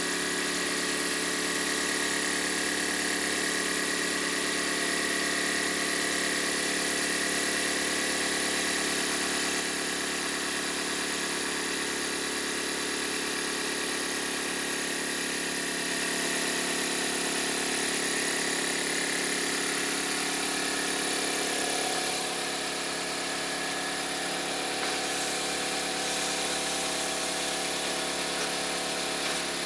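Miniature live-steam model tractor running steadily: a continuous mechanical whirr with a hiss. It drops slightly in level about ten seconds in and again a little after twenty seconds.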